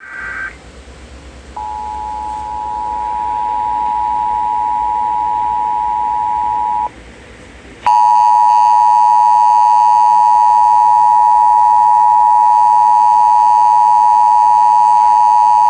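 Emergency Alert System tones on a radio broadcast announcing a severe thunderstorm warning. A brief warbling data burst at the start is followed about a second and a half in by a steady two-note tone lasting about five seconds, then, after a short gap, a louder and harsher steady alert tone from about eight seconds in.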